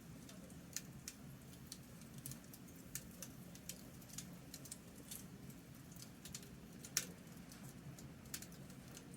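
Campfire crackling: irregular sharp pops and snaps, a few a second, with one louder pop about seven seconds in, over a faint steady low rush.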